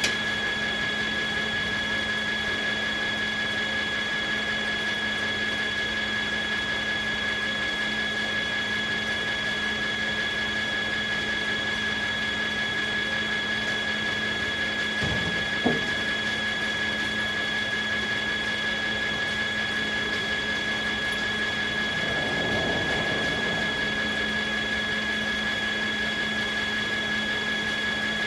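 Sawmill machinery running steadily with a constant high-pitched whine over a low hum, with two short knocks about halfway through and a brief swell in the noise a few seconds later.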